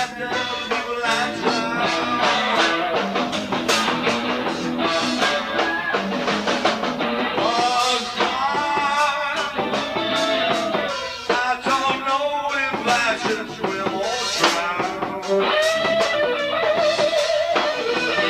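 A small rock band playing live: guitar over bass and drum kit.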